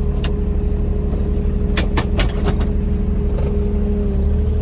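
Small off-road farm vehicle driving at a steady speed: a steady engine rumble with a whine over it, and a few sharp rattling clicks about two seconds in.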